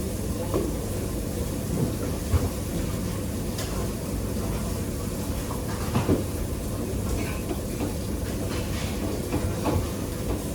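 Steady low rumble of a busy restaurant kitchen, with a few scattered knocks and clinks of pans and utensils; the loudest comes about six seconds in.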